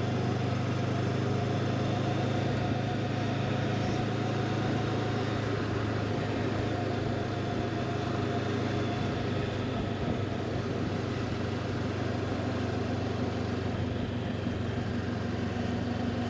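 Honda CB500X parallel-twin engine running steadily, with an even hiss of wind and road noise over it.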